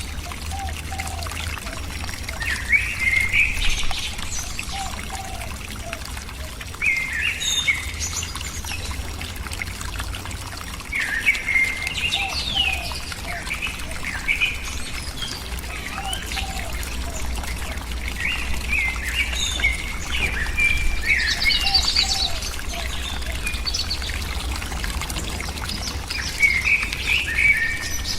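A songbird singing short, quick phrases that repeat every few seconds, with fainter low notes between them, over a steady background hiss.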